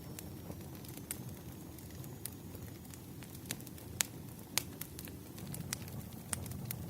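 Campfire burning: a steady low rumble of flames with scattered, irregular sharp pops and crackles, the loudest about four seconds in.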